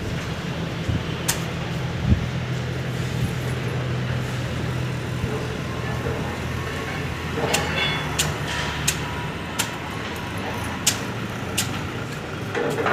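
Train running with a steady low rumble, and scattered sharp metallic clicks from the wheels on the rails, more frequent in the second half.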